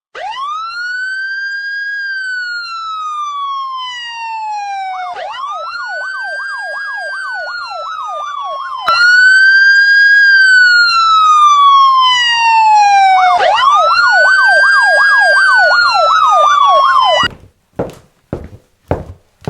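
Electronic police siren sound effect: a slow rising-and-falling wail alternating with a fast yelp, twice over, louder from about halfway through. It cuts off suddenly near the end, followed by a few sharp taps.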